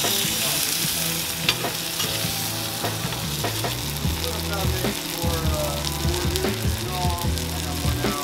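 A flour-tortilla burrito frying in oil on a flat-top griddle: a steady sizzle.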